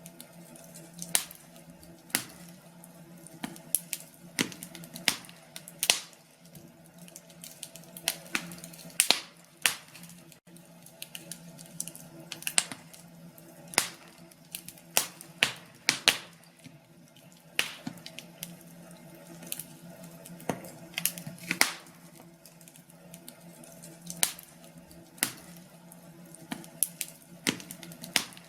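Log fire crackling: irregular sharp pops and snaps, one to three a second, over a faint steady low hum.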